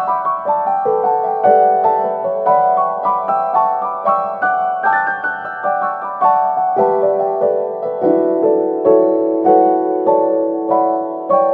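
Background music: solo piano playing a steady run of notes.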